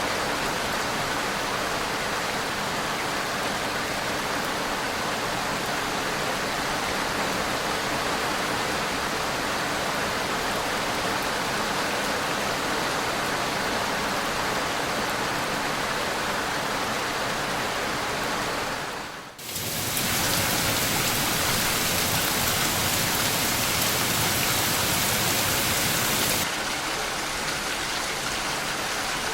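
Steady heavy rain, a dense even hiss of falling water. About two-thirds of the way through it cuts out for an instant, then comes back louder and brighter for several seconds before settling to the earlier level.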